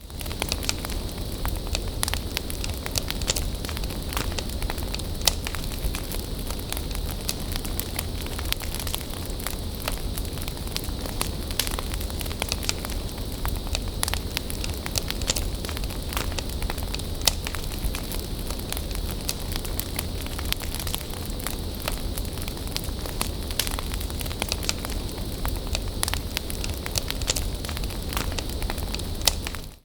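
Wood bonfire burning, with frequent sharp crackles and pops scattered irregularly over a steady low rumble of the flames.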